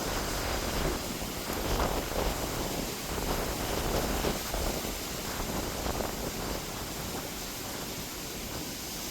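Storm wind buffeting the microphone: a steady rushing noise with a low rumble that swells and eases.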